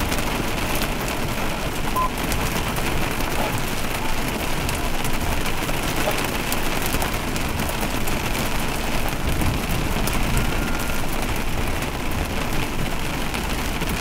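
Heavy rain falling steadily, an even hiss with many small sharp hits throughout.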